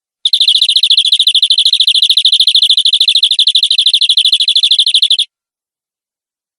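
Domestic canary singing one long rapid trill, about a dozen notes a second at one steady pitch, lasting about five seconds and cutting off abruptly.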